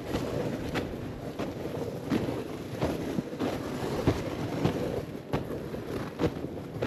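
Footsteps crunching through snow, about three every two seconds, over a continuous scraping hiss from a Polk sled being dragged across the snow on a rope.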